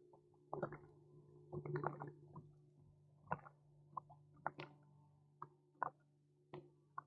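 Faint water drips and small plops around a kayak, with scattered light clicks over a steady low hum.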